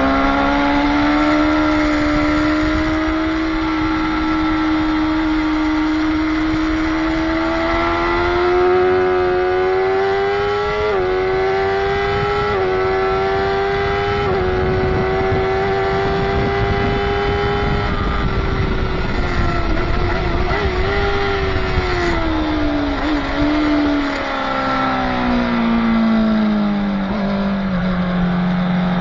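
Motorcycle engine at high revs heard onboard over heavy wind rush. The engine note climbs steadily, with three quick breaks in pitch a little after halfway through the first half, then holds level and falls away over the last few seconds as the bike slows.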